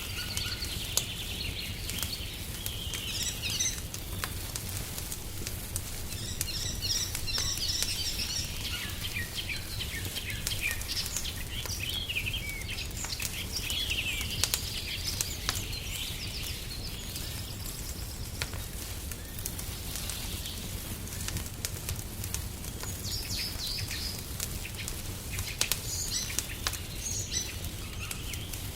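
Small songbirds chirping and trilling in quick bursts over a crackling wood fire, with scattered sharp pops and a steady low rumble underneath.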